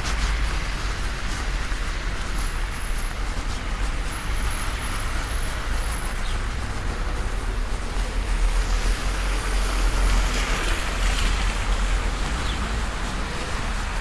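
Heavy rain falling steadily in a downpour: a continuous rushing hiss with a low rumble underneath, swelling louder for a few seconds past the middle.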